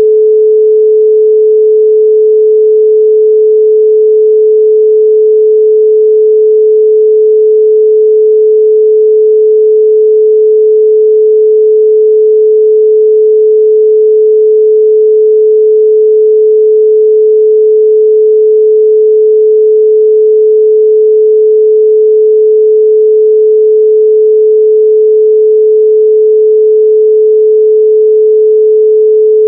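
A loud, steady 432 Hz pure sine tone: a single unbroken pitch with no overtones, holding level throughout.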